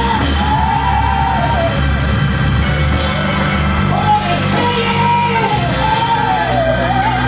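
A church band plays with sustained low bass notes while a voice sings and cries out in long, gliding held phrases over it.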